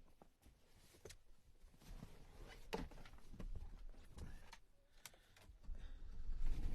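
Scattered clicks and knocks, then a pickup truck's engine starts near the end and settles into a steady low idle.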